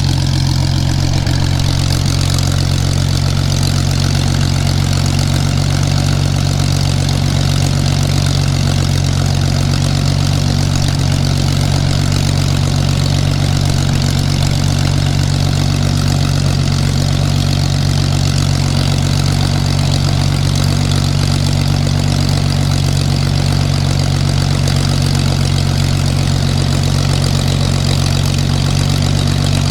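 Supermarine Spitfire's V12 piston aero engine running steadily on the ground, a deep even drone with no change in speed.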